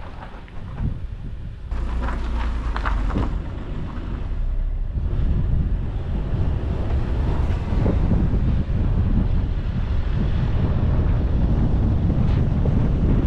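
Car driving on the road: a steady low rumble of road and engine noise with wind buffeting the microphone.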